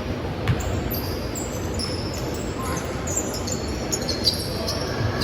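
Basketball game play: a basketball bouncing on the court, a sharp knock about half a second in, and many short high squeaks typical of sneakers on a gym floor, over faint voices.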